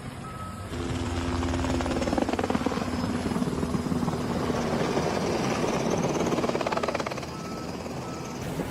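An engine or motor running with a fast, even pulsing, louder from about a second in until near the end.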